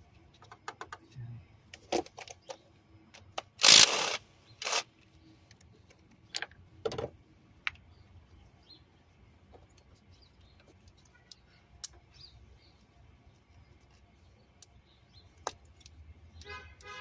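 Hand tools and metal parts clicking, tapping and clinking in an engine bay as a fuel injector is worked loose, with a louder half-second rattle about four seconds in and a few more knocks after it.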